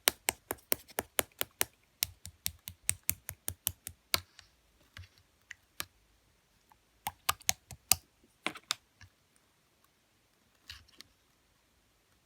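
Clear slime being pressed and poked, making quick runs of sharp clicking pops, about five to six a second, in two bursts, with a softer squish near the end.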